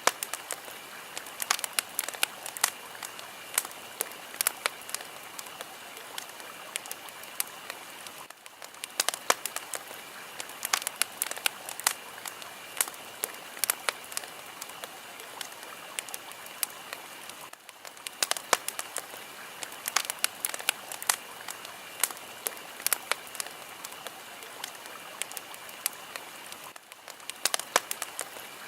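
Fire crackling: many irregular sharp pops and snaps over a steady hiss. The hiss dips briefly about every nine seconds.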